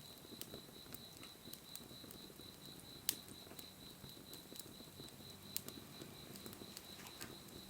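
Wood fire burning with a soft crackle and scattered sharp pops, the loudest about three seconds in. A steady high-pitched tone sounds throughout.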